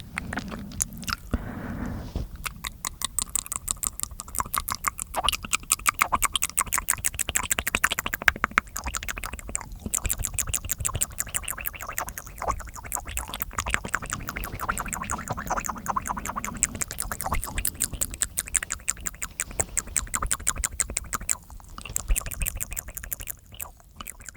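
Close-miked wet mouth sounds: rapid clicking and smacking, many clicks a second, with brief pauses about ten seconds in and near the end.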